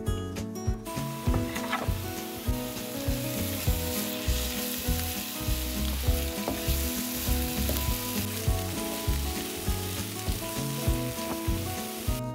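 Food sizzling as it fries in a hot pan, with occasional stirring. The sizzle starts about a second in and cuts off abruptly just before the end.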